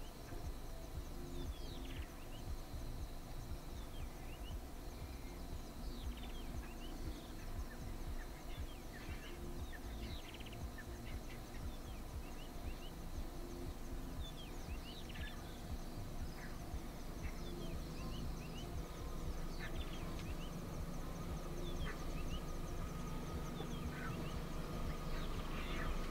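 Outdoor ambience of birds calling: many short, quick chirps sliding downward, scattered throughout, over a steady low rumble and a faint high insect buzz.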